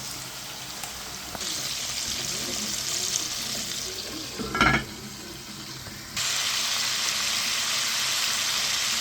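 Chicken pieces deep-frying in hot oil in a pot, a steady sizzling hiss that grows louder about a second and a half in and again after six seconds. One brief knock about halfway through.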